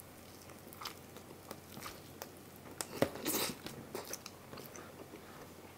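Close-miked eating of pizza: a person chewing a bite of pizza, with small wet mouth clicks throughout and one louder crunch about three seconds in.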